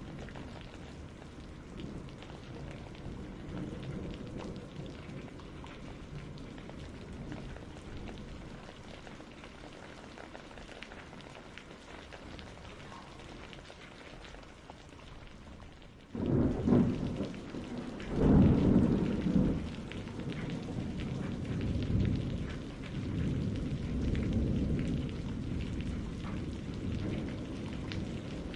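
Steady rain with a low rumble; a little past halfway a loud clap of thunder breaks in suddenly and rolls on in slow swells of rumbling over the rain.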